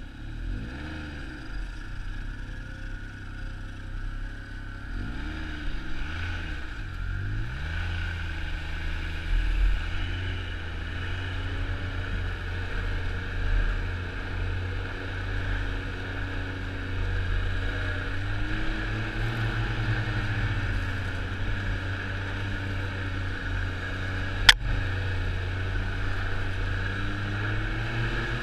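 Snowmobile engine running, its pitch rising and falling with the throttle in the first few seconds, then holding steadier and a little louder. A single sharp click near the end.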